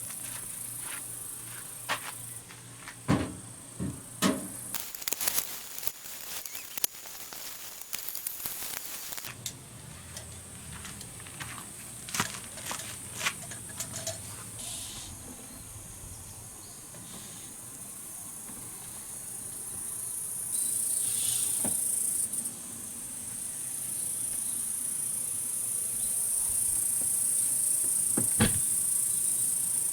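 Crickets trilling in a steady high chorus that grows louder about two-thirds of the way through, with scattered sharp clicks and knocks in the first half.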